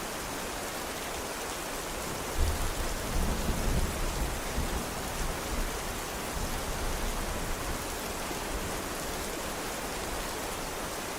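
Steady rainfall, with a low rumble of thunder rolling in about two seconds in and fading away over the next few seconds.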